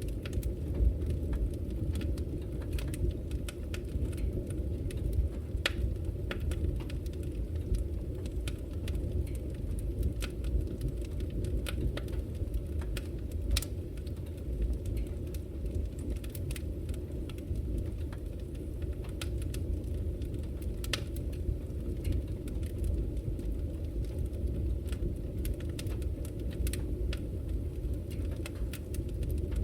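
Fire burning in a fireplace: a steady low rumble with irregular sharp crackles and pops.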